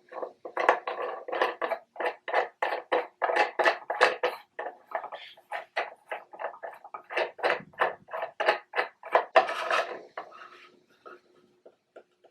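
Quick, repeated scraping clicks, about three to four a second, as the metal post and screw of a wooden tiered tray are turned by hand to screw the tier on. They thin out to a few faint ticks near the end.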